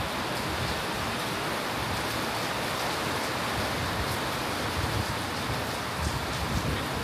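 Steady rain falling on a wet balcony deck and marina water: an even hiss, with a few sharp drop ticks now and then.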